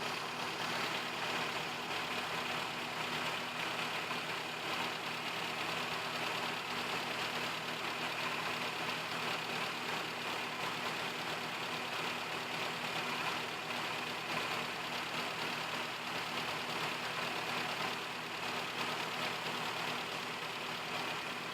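Suzuki Vitara's G16A four-cylinder engine idling steadily.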